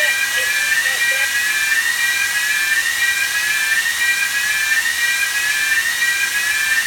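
Ship's engine room machinery running: a steady high whine over a hiss, with a tone that rises and starts again about once a second.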